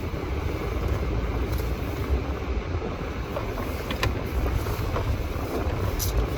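Steady road and engine rumble inside a moving car's cabin, with a couple of faint ticks.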